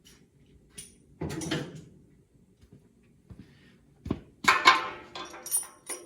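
Metal hand tools clanking and rattling as they are picked up and set down, with a clatter about a second in, a sharp knock about four seconds in and the loudest clatter with a brief metallic ring just after.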